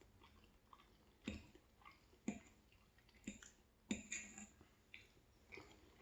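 Faint chewing close to the microphone, with soft wet mouth clicks and smacks about once a second.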